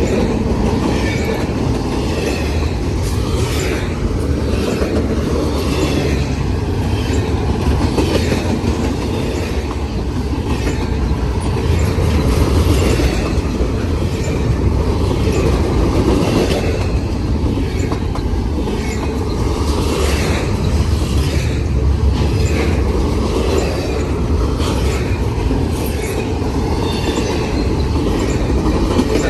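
Long freight intermodal train's cars rolling past: a steady heavy rumble of steel wheels on rail, with frequent short high squeaks and clicks from the wheels.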